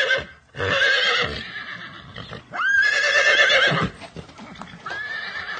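Horse whinnying: a series of loud, quavering neighs, the third opening with a sharp rising squeal.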